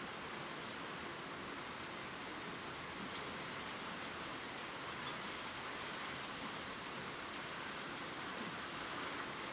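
Gentle rain falling on leaves: a steady, even hiss with a few faint drop ticks standing out.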